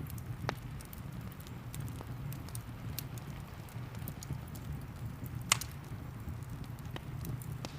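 Wood fire crackling, with scattered sharp pops and one loud pop about five and a half seconds in, over a steady low rumble and the even hiss of rain.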